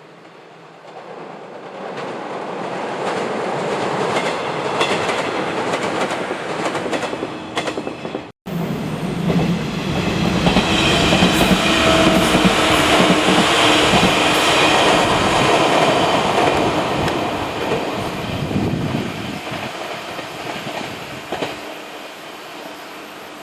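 A train on the San'yō Main Line passing at speed over a level crossing, its wheels clacking over the rail joints: the noise builds over the first few seconds, stays loud through the middle and fades away near the end. The sound cuts out for an instant a little past eight seconds.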